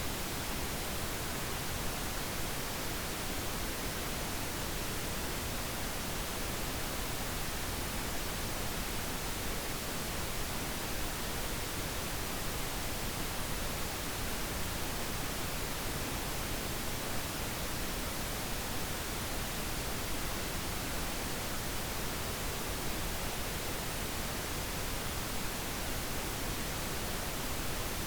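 Synthetic pink noise playing steadily: an even, unchanging hiss spread from deep to high, with no alarm or other sound.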